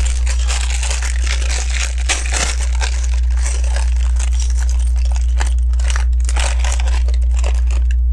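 Crinkling plastic bag of Lego pieces being handled, with many small clicks and rattles of plastic bricks, over a steady low hum.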